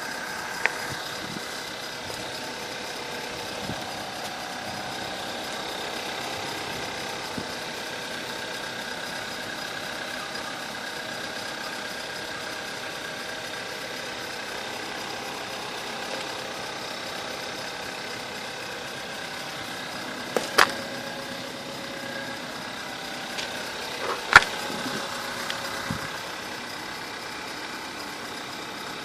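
2013 Volkswagen Jetta engine idling on a cold start in deep frost, with a steady high-pitched whine over the engine's run: the strange cold-engine sound. A few sharp clicks stand out, the loudest about 24 seconds in.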